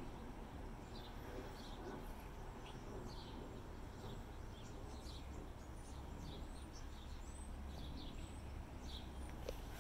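Small birds chirping, short high chirps coming irregularly several times a second, over a steady low rumble.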